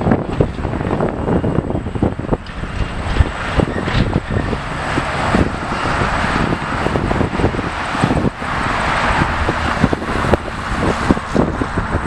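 Wind buffeting the microphone over steady road traffic noise, swelling twice as vehicles pass.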